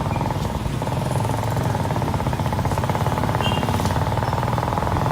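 Motorcycle engine running steadily under way, a fast, even chug of firing pulses.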